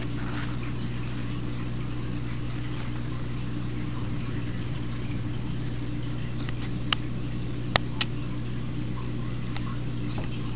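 A steady low hum of some running machine, with a few sharp clicks in the second half.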